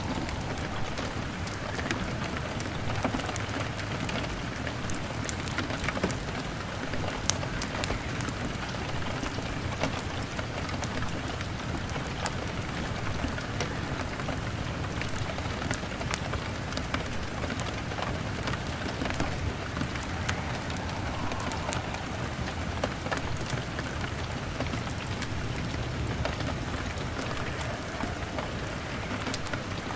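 Steady rain pattering on a window, mixed with a crackling wood fire. Sharp pops and ticks are scattered all through it, over a low steady rumble.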